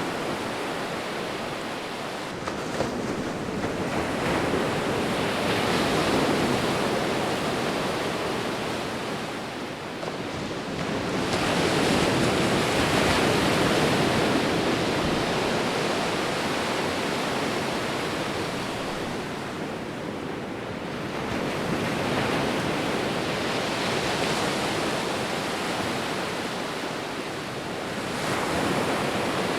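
Ocean waves breaking and washing on a shore, a steady rush of surf that swells and falls back in slow surges about every eight seconds.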